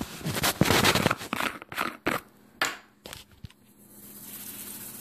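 Garlic powder shaken from a spice shaker onto chicken: a dense rattling burst over the first second or so, then a few short separate shakes. A softer steady hiss comes in near the end.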